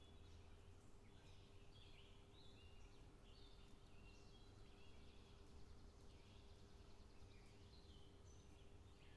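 Faint small birds chirping over and over in short high notes, over a steady low hum.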